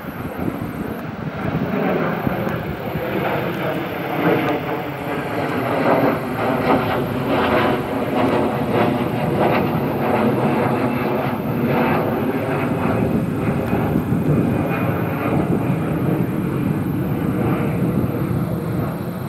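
Jet airliner departing under takeoff power: a continuous jet engine noise with a few faint steady tones in it, building over the first few seconds and then holding loud.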